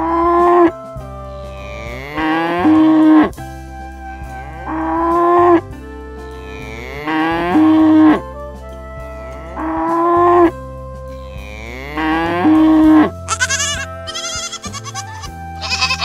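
A cow mooing six times, about every two and a half seconds, each moo about a second long and rising in pitch, over background music. Near the end, goats start bleating in short, wavering calls.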